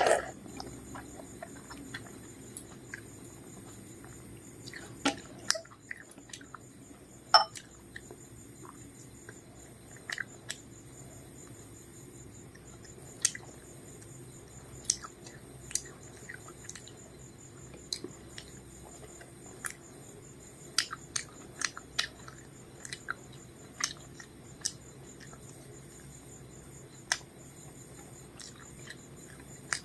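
Close-up eating sounds: a person chewing a rice meal with fried food, with scattered wet mouth clicks and smacks over a steady hiss.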